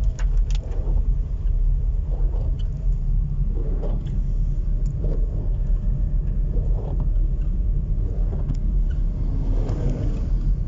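Steady low rumble of a moving vehicle's engine and road noise, heard from inside the vehicle, with a few light clicks and rattles.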